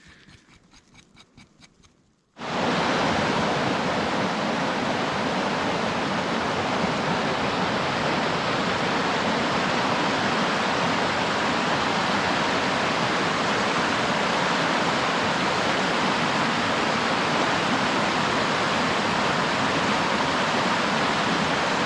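Faint clicking, then, a little over two seconds in, a loud, steady rushing noise that starts abruptly and stays perfectly even.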